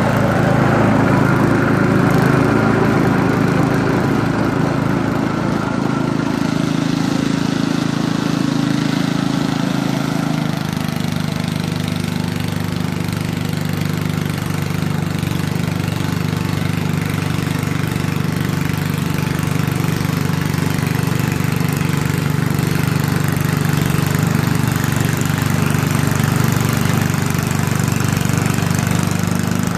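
A 1971 Ariens snow thrower's 7 hp Tecumseh single-cylinder four-stroke engine running steadily, on a replacement connecting rod after being rescued with a seized engine. About ten seconds in its note shifts and settles into a steady lower hum.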